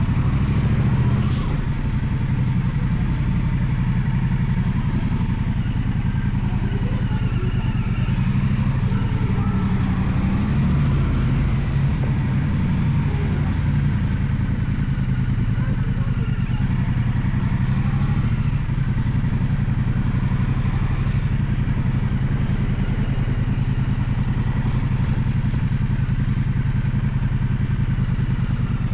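Gaokin GK1200 motorcycle engine running at a steady, low engine speed, with no marked revving.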